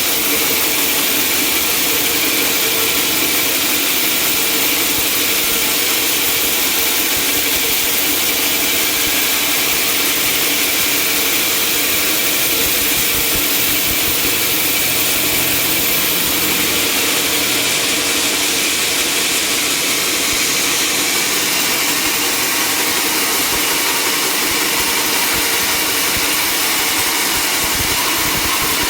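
Sawmill machinery running steadily, a loud, even mechanical noise that does not change.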